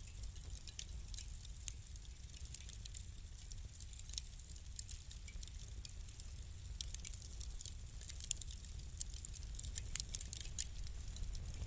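Wood fire crackling in a fireplace: irregular small snaps and pops, thicker toward the end, over a steady low rumble.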